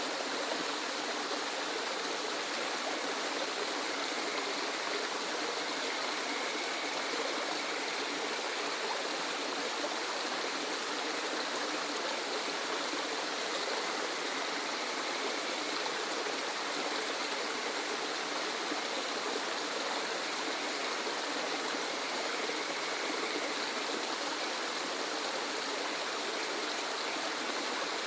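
Waterfall: falling water rushing steadily, an even hiss with little deep rumble and no changes.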